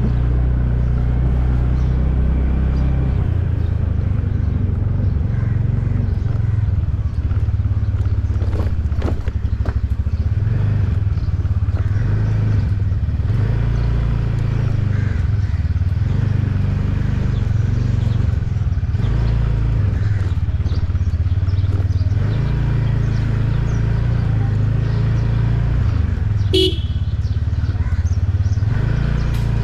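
Motorcycle engine running under way, a loud low rumble whose pitch shifts up and down with speed and gear changes. A short, sharp tone sounds briefly near the end.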